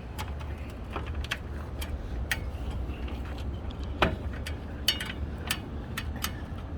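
Irregular sharp clicks and taps, a dozen or more, over a steady low rumble; the loudest click comes about four seconds in.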